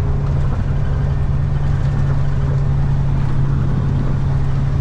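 Semi truck's diesel engine running at a steady cruise, heard from inside the cab: an even, unchanging hum over low road rumble.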